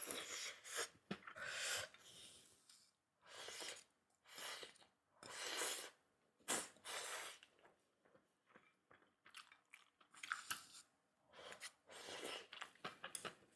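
Close-miked chewing and crunching of food in irregular bursts.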